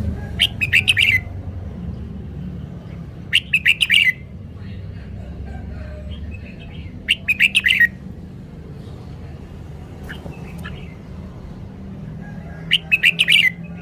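Red-whiskered bulbul singing four short, loud phrases of quick chirping notes, spaced a few seconds apart, over a steady low rumble.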